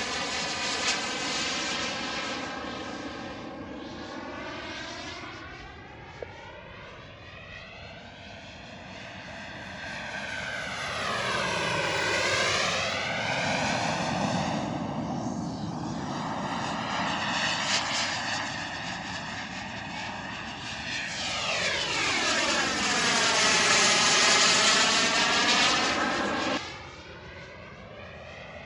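Radio-controlled turbine jet flying past in passes: its engine noise swells and fades, with a sweeping, phasing whoosh each time it goes by, loudest about halfway through and again near the end. It drops off suddenly just before the end.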